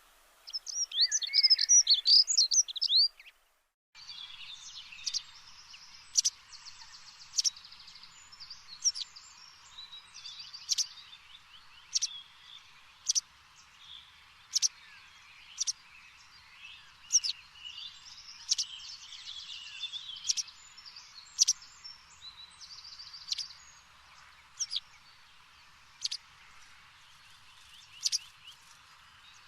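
Birds chirping and singing. It opens with a short, loud burst of fast twittering. After a brief break comes a steady stretch of birdsong, in which one sharp chirp repeats about every second, over softer trills and calls.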